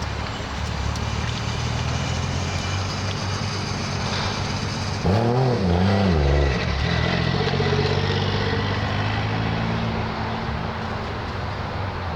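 Car engines idling steadily. About five seconds in, one engine is revved twice in quick succession, its pitch rising and falling with each blip.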